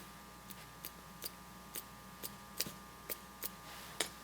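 Paintbrush tapped again and again to spatter watercolour paint, giving about ten sharp ticks at roughly two a second, the last one the loudest.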